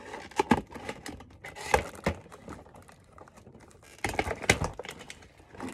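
Plastic toy packaging being handled and opened: scattered sharp clicks and light knocks, with a quick run of clicks about four seconds in.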